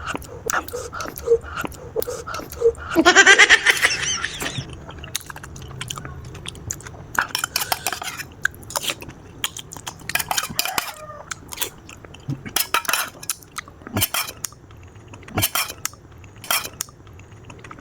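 Eating at close range: a spoon and fork clicking and clinking against a bowl of instant noodles, with chewing, and a louder noisy stretch about three seconds in that lasts about a second and a half.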